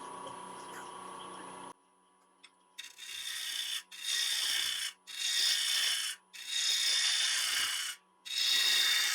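A turning gouge cutting the spinning sycamore bowl blank on a lathe, in about five strokes of roughly a second each with short breaks between, each a hiss of wood being shaved. Before the strokes there is a faint steady hum that cuts out about two seconds in.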